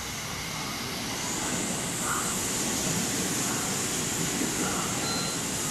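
JR Central 313 series electric train passing through a station without stopping: a steady rumble and hiss of wheels on rail that grows louder about a second in as the cars draw alongside.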